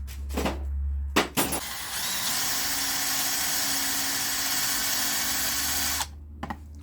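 A few knocks of tools being handled, then a handheld power tool runs steadily for about four seconds and stops abruptly, cleaning the starter's terminal connections.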